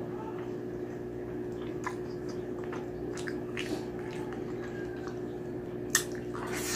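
Close-miked eating: a person chewing braised pork humba with rice, with scattered wet mouth clicks and smacks. A sharp, louder bite comes about six seconds in.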